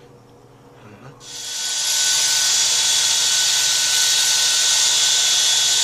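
A handheld power tool running at a steady speed with a high whine. It spins up about a second in and cuts off suddenly near the end.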